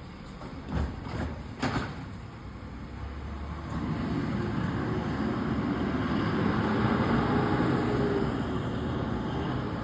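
Garbage truck engine running and growing louder from about three seconds in as the truck comes closer, after a few short knocks in the first two seconds.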